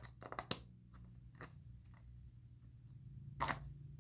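Plastic toy packaging being handled and pulled at by hand while it resists opening: a few faint clicks and crinkles, with one louder rustle about three and a half seconds in.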